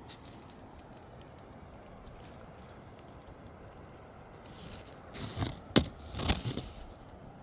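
A short cluster of scrapes and sharp knocks, two of them loudest, over a steady low rushing background; something being handled.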